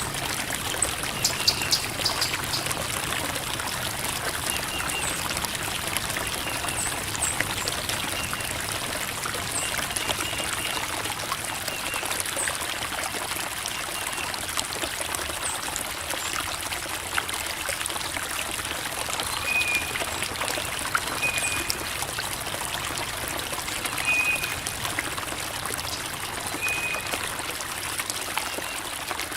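Creek water babbling and trickling over rocks: a steady splashing rush with small irregular plinks.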